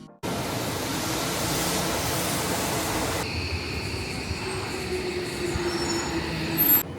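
Train running on the rails, a steady rushing of wheels and track that turns duller about three seconds in, with a faint whine held over it.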